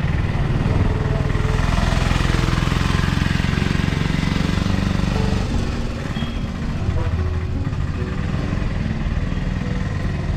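Street traffic with a vehicle engine running close by, loudest for the first five seconds or so and then easing off a little.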